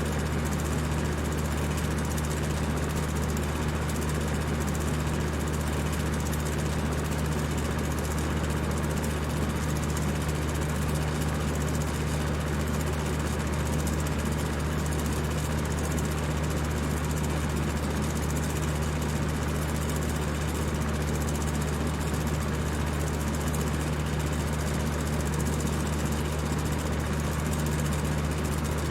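Electric fan running steadily at high speed: a constant motor hum under an even rush of air.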